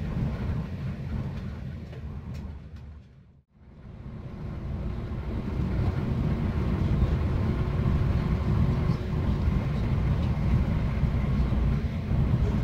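Steady low rumble of a train running along the track, heard from inside a passenger carriage. The rumble fades out almost to silence about three and a half seconds in, then fades back up louder.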